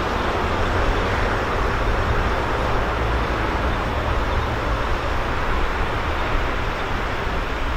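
Steady rumble of a diesel-hauled passenger train rolling away along the track, mixed with road traffic noise.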